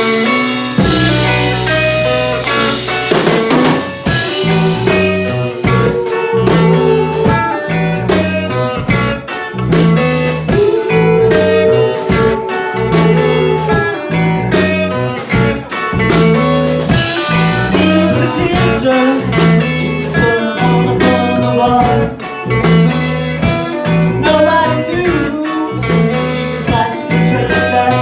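Psychedelic rock band playing an instrumental jam on electric guitars, bass and drum kit. The drums come in with a steady beat about four seconds in.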